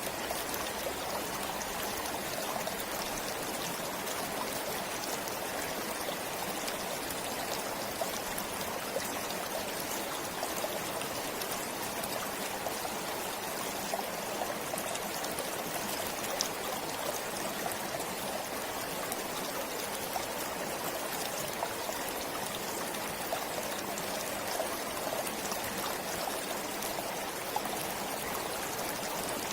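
A forest stream flowing steadily: a continuous, even rush of water with occasional small splashes and trickles.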